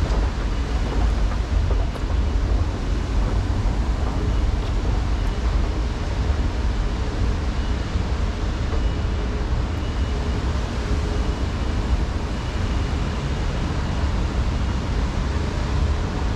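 Steady city street traffic noise: a constant heavy low rumble with an even hiss over it and no distinct events.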